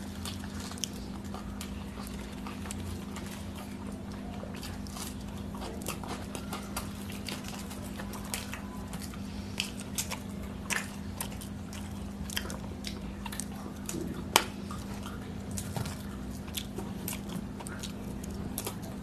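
Close-up eating sounds of people chewing rice and curry: many short, scattered mouth clicks and chews over a steady low hum, with one sharper click about fourteen seconds in.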